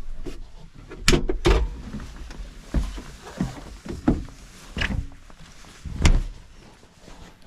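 Bobcat E50 mini excavator's diesel engine stops right at the start. A series of separate knocks and thunks follows, the loudest two just after a second in and another about six seconds in: the cab door and the operator climbing out of the machine.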